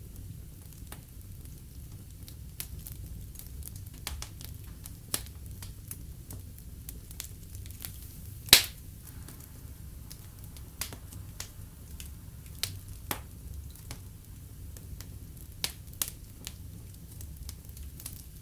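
Wood fire burning in a fireplace: a low steady rumble of flame with irregular crackles and snaps, one loud pop about eight and a half seconds in.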